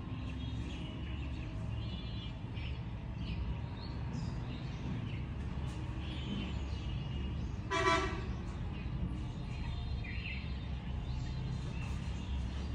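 Many birds chirping and calling in short overlapping notes over a steady low background rumble. One louder, harsher half-second call or toot stands out about eight seconds in.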